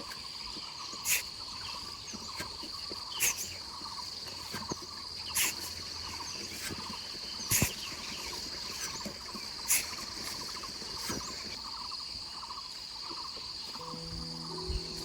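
Insects, crickets among them, trilling steadily, with a sharp knock about every two seconds over the first ten seconds. Music starts near the end.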